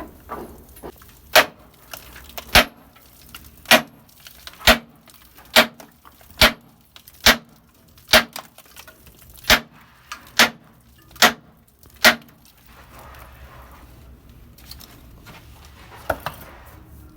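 A dozen sharp hammer blows at a steady pace of about one a second, stopping about twelve seconds in, then one lighter knock near the end.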